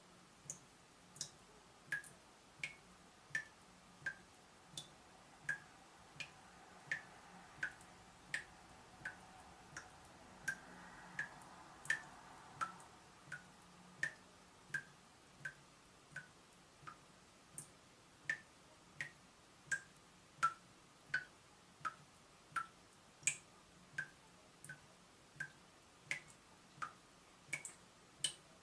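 Water dripping steadily from a leaking tap, one drop about every 0.7 seconds. Each drop is a short plop with a quick downward slide in pitch.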